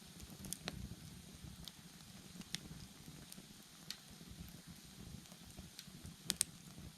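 Wood bonfire crackling: sharp pops and snaps at irregular moments over a soft, low rustle of burning, with two louder pops close together near the end.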